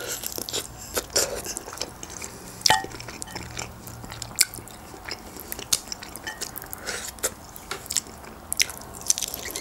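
Grilled chicken being bitten and chewed close to the microphone, with many short wet clicks and smacks and some tearing of meat off the carcass by hand.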